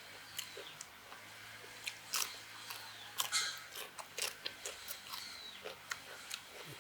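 A person biting and chewing food close to the microphone, with irregular crunches.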